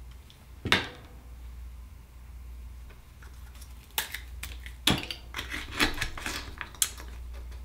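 Scattered sharp clicks and scrapes of a metal tool against an Akoya oyster's shell as it is pried open and the pearl is taken out. One click comes a little under a second in, and a dense run of clicks follows in the second half.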